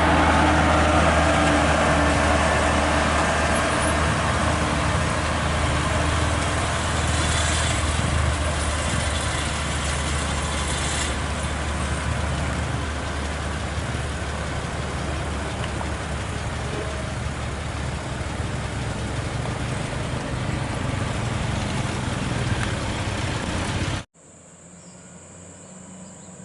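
Heavily loaded Volvo FH16 550 truck's diesel engine running with a steady low drone, slowly fading as it draws away. About 24 seconds in it cuts off suddenly, leaving a much quieter background with a steady high whine.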